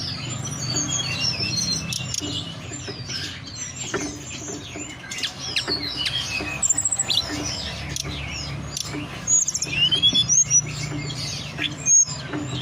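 Tledekan gunung songbird singing: a rapid stream of varied high chirps and short whistled slurs, over a low steady hum.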